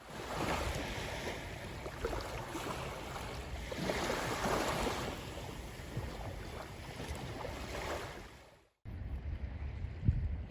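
Sea waves washing with wind buffeting the microphone, fading out about eight and a half seconds in and resuming quieter after a short gap, with one sharp knock near the end.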